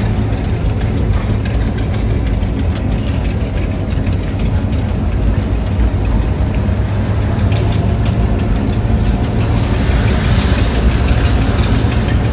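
A steady, loud, low engine rumble, as of a motor vehicle running.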